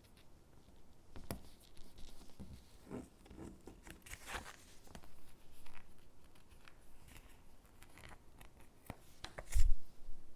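Stickers being peeled from their backing sheet and pressed onto paper gingerbread cutouts: soft peeling, paper rustles and light taps, with a louder knock near the end.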